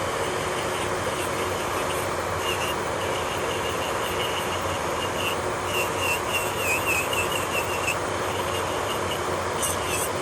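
Electric nail drill running against a nail: a steady whirr with a high whine that wavers in pitch as the bit meets the nail.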